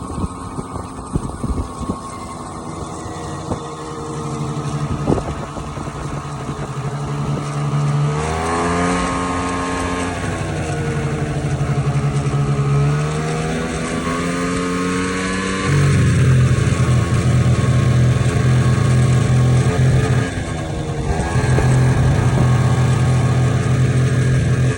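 Vespa LX50 scooter engine while riding, with irregular clicking in the first few seconds. The engine speeds up with rising pitch about eight seconds in and levels off. It climbs again and runs louder and steady from about sixteen seconds, easing off briefly near twenty seconds before picking up again. The owner reports strange noises from it while riding.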